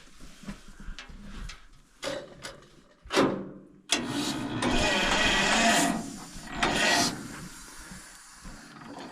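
Starter motor cranking a John Deere 60's two-cylinder engine with the compression releases open, in a few uneven bursts. The longest burst runs for about two seconds, starting about four seconds in.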